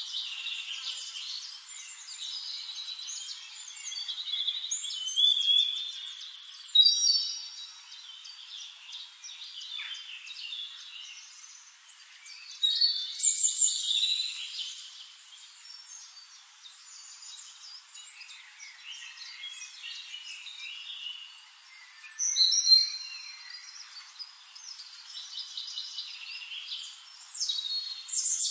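Several birds singing and chirping together: a busy run of high, quick whistled phrases, with a few louder phrases standing out every several seconds.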